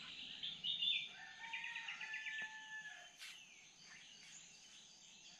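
Birds chirping and whistling faintly in a garden, busiest in the first three seconds and thinning out after that, over a steady high-pitched hiss.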